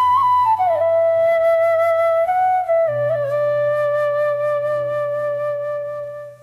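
Background music: a flute melody of long held notes sliding down between pitches over a low sustained drone.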